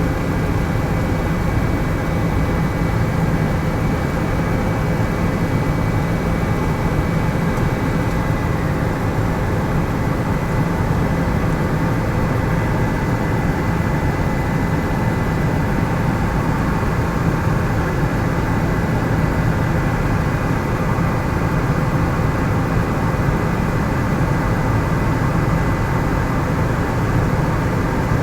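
Helicopter in flight: the steady noise of its rotor and engine, with a thin, steady high whine above it.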